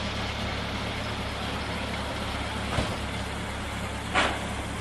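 Steady low rumble of a running vehicle engine, with a short knock about three seconds in and a brief hiss near the end.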